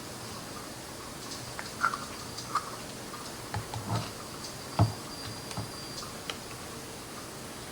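Scattered light clicks and taps of kitchen utensils against dishes, the loudest tap about five seconds in.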